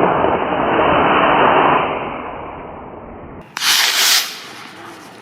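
Model rocket motor burning after lift-off: a loud rushing roar that fades over the next three seconds as the rocket climbs away. About three and a half seconds in comes a short burst of hiss, roughly half a second long.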